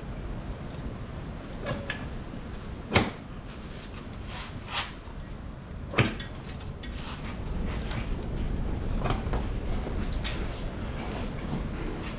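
Handling noise from work on a four-wheeler: two sharp knocks about three seconds apart, with lighter clicks and scrapes over a steady low rumble.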